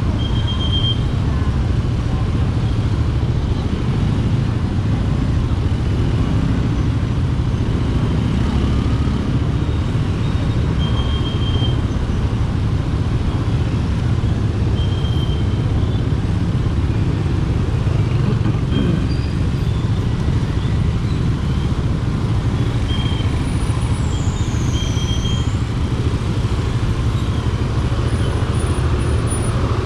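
Motorcycle engine idling in slow, crowded street traffic: a steady low rumble with other engines running around it. A few short high beeps come and go through it.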